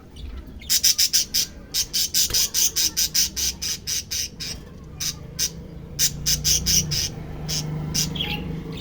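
Nine-day-old budgerigar chicks calling: a fast run of short, high-pitched calls, about five a second, that thins out to scattered single calls in the second half.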